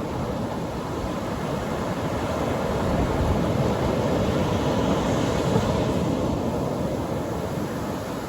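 Atlantic Ocean surf breaking on a beach: a steady low rush of waves that swells about three seconds in and eases off near the end.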